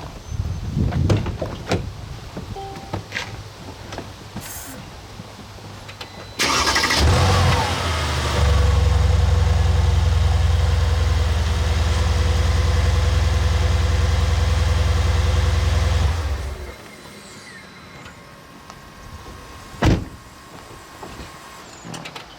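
Mercedes-AMG C63 S V8 started about six seconds in: the starter cranks briefly, the engine catches and runs steadily for about eight seconds, then is switched off. A single sharp thump follows a few seconds later.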